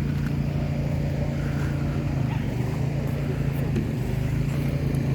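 A steady low engine drone, holding an even pitch, with a few faint light clicks over it.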